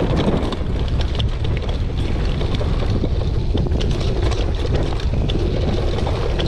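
Wind buffeting the microphone as a mountain bike rides downhill, a steady low rumble with scattered clicks and rattles from the bike over the trail.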